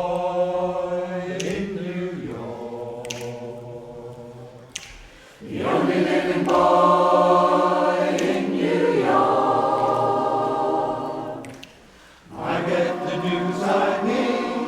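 Community choir singing long held chords in harmony, in three phrases with brief breaks about five seconds in and again near twelve seconds.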